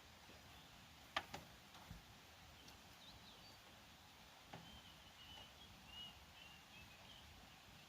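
Quiet outdoor ambience with faint, scattered bird chirps. A sharp double click about a second in is the loudest sound, and a softer knock follows midway.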